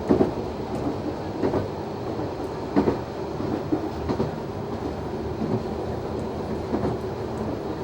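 Noto Railway NT100 diesel railcar running along the line, heard from the cab. A steady engine and running noise, with paired wheel clacks over rail joints coming a little more than once a second.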